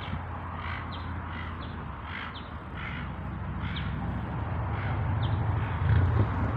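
A flock of birds calling: many short calls in quick succession, over a steady low rumble.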